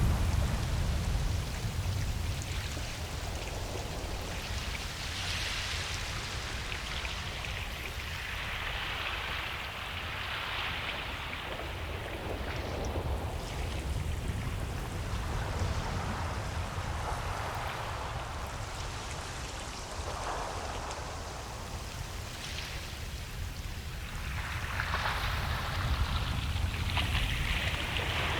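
Ocean surf washing up a beach: a steady hiss of water that swells and fades every several seconds as waves break, over a constant low rumble.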